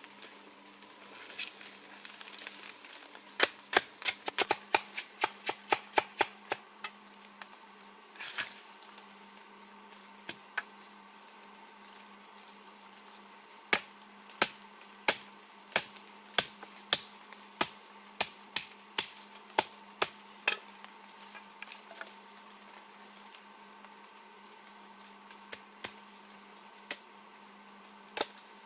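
A hand tool striking hard material again and again in runs of sharp blows, under two a second in the longest run, against a steady drone of insects.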